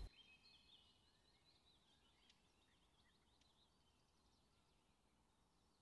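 Near silence: faint room tone with a few faint high chirps of distant birds.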